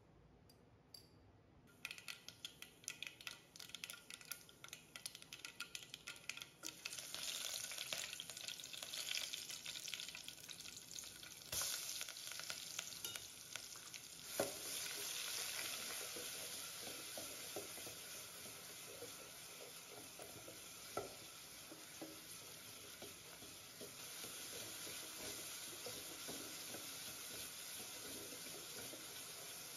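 Mustard seeds spluttering in hot coconut oil in a steel pot: quick crackling pops that thicken after a few seconds into a steady frying sizzle as more ingredients go in for a rasam tempering. A steel ladle stirs through the sizzle and clinks sharply against the pot a couple of times, about midway.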